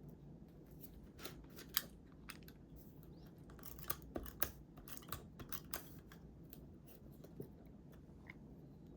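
Scissors snipping through paper: a scattering of short, sharp cuts, bunched most thickly in the middle.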